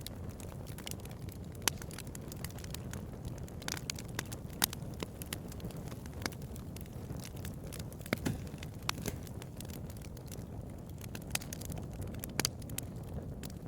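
Wood fire burning: a steady low rumble with irregular sharp crackles and pops scattered throughout, a few louder snaps among them.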